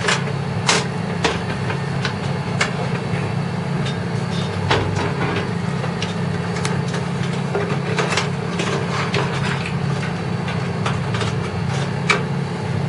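Scattered clicks and knocks of hands working the metal PC case and power supply as the power supply is taken out, over a steady low hum.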